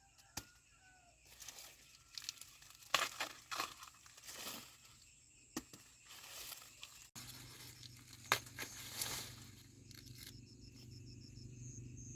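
Dry corn leaves and husks rustling, crinkling and tearing, with sharp snaps, as the plants are handled. A steady low hum runs under the rustling from about seven seconds in.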